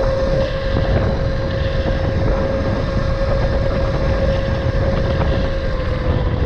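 TUTTIO electric dirt bike's motor whining at a steady pitch while riding, the pitch dipping slightly near the end, over heavy wind buffeting and road noise on the microphone.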